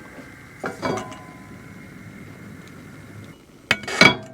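A utensil clinking and knocking against glass and cookware while garlic is added to the pan, in two short bursts: about a second in and near the end.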